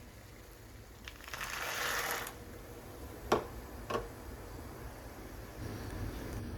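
Kitchen handling sounds: a crinkling rattle lasting about a second, then two sharp clicks about half a second apart, and a low steady hum starting near the end.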